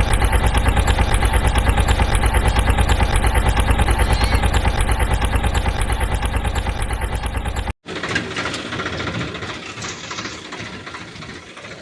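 Vehicle engine idling, a loud, steady, fast rhythmic chugging. It cuts off abruptly about eight seconds in, and a quieter engine rumble follows, fading away.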